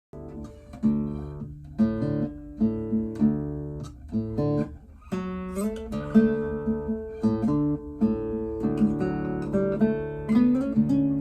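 Nylon-string classical guitar, a replica of the Torres FE-18, played solo: a passage of plucked notes and chords, some strummed, each note ringing on.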